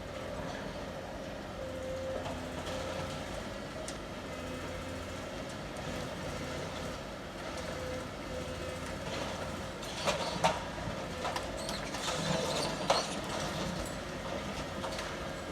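Heavy vehicle or machine running with a steady drone, with several sharp clanks about two-thirds of the way in.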